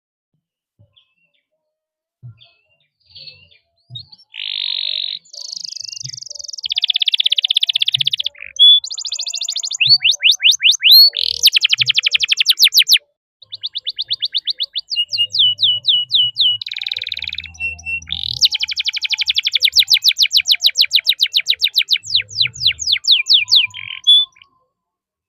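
Domestic canary singing: long rolling trills of fast repeated notes mixed with sharp chirps, in phrases. There is a brief break about halfway, and the song stops a second before the end.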